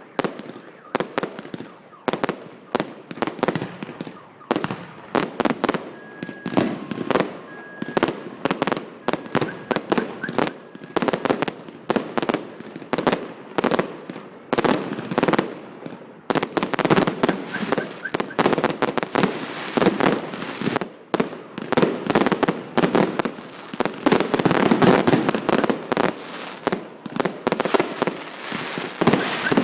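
Fireworks display: a rapid, continuous string of bangs and crackles, growing denser and louder in the second half.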